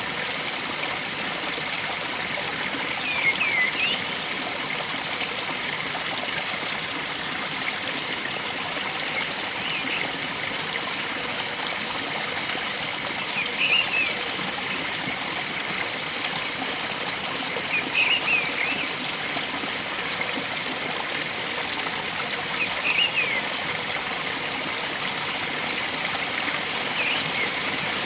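Steady rush of flowing water from a forest stream, with a bird repeating a short call of a few quick chirps about every four to five seconds.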